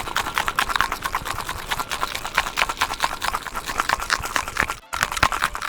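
Ice rattling hard inside a cocktail shaker being shaken, a quick, even run of knocks several times a second. It breaks off briefly near the end, then a last short burst of shaking.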